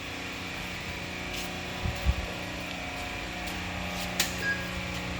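Steady mechanical hum inside a fire engine's cab, with a couple of low knocks about two seconds in and a few sharp clicks.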